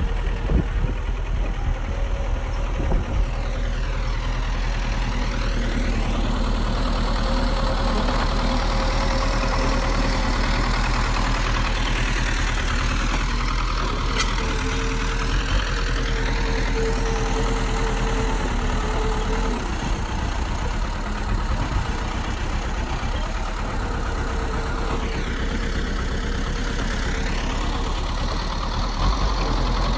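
Bulldozer's heavy diesel engine running steadily, with its higher sound sweeping down and back up a few times.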